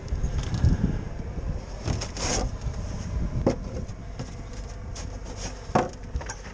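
Strong gusting wind buffeting the microphone with a low rumble, with a few sharp knocks and clatters.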